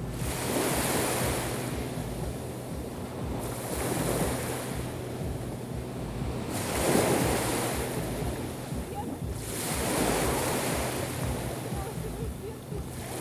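Black Sea waves breaking on the shore, the surf swelling and falling back about every three seconds.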